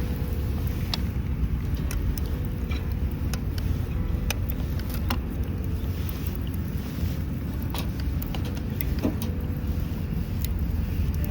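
Campfire crackling, with scattered sharp pops at irregular times, over a steady low rumble of wind on the microphone.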